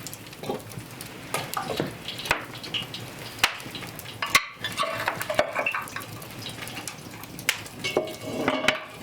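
Cooking sounds: a utensil knocking and scraping against a pot or pan in irregular clinks, with short ringing scrapes. The sound briefly drops out a little under halfway through.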